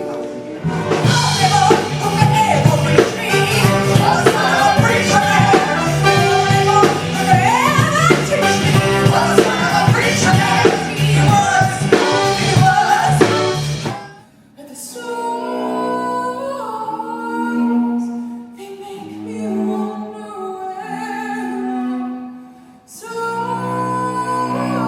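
Musical theatre song: a woman singing over a full, rhythmic band accompaniment. About 14 seconds in it cuts abruptly to a slower, sparser passage of long held sung notes.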